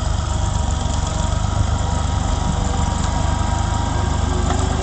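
Tractor engine running steadily with a continuous low, rapid chugging.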